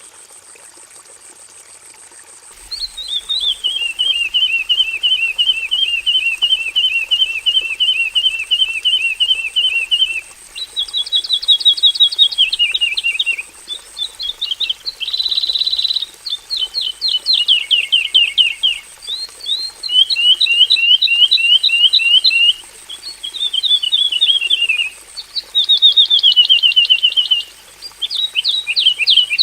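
Javan bush lark (Horsfield's bush lark) singing a long, varied song. After a short pause, it gives a long run of rapid repeated notes, then switches through quick trills and chipping phrases separated by brief gaps.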